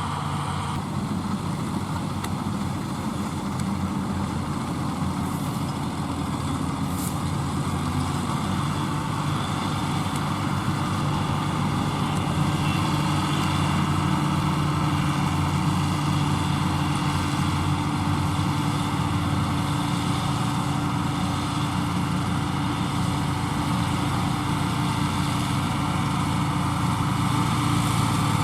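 John Deere 5104's three-cylinder diesel engine running steadily under load, pulling a loaded trolley. It gets a little louder about halfway through.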